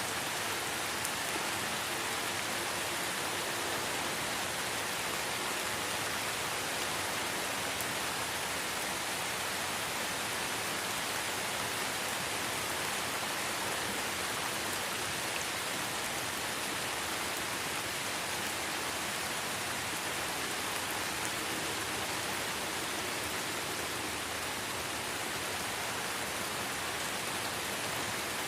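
Steady light rain falling in a forest, an even hiss of many small drops on leaves and surfaces.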